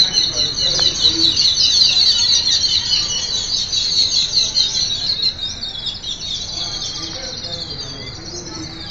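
A flock of small birds chirping and singing together, a dense chorus of rapid high chirps. It thins out and quietens after about five seconds.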